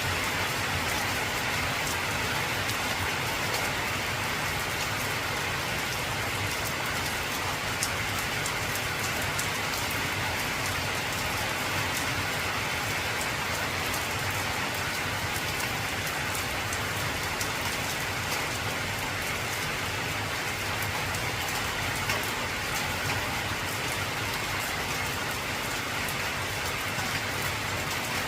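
Heavy rain on an old corrugated tin roof: a steady hiss of rain dense with fine, sharp drop ticks on the metal.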